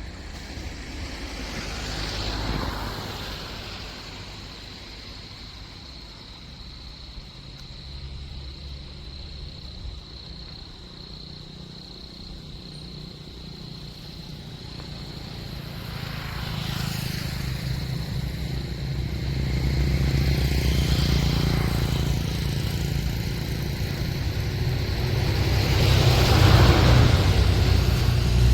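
Motor engines running, a low steady engine hum that grows louder through the second half, with a few swells like vehicles passing close by.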